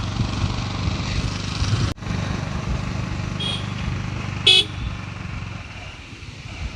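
Motorcycle engine running steadily while riding, with a short horn beep about four and a half seconds in. The engine sound eases off near the end.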